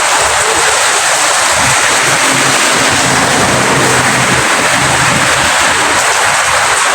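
Steady rain falling, an even hiss without breaks. A faint low hum sits under it for a few seconds in the middle.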